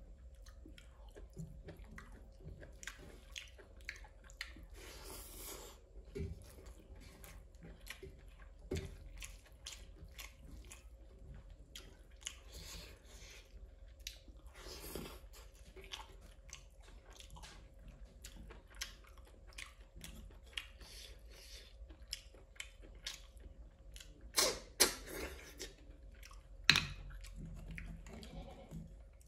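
Close-miked chewing and mouth sounds of a person eating: many small wet clicks and smacks, with a few louder sharp sounds near the end.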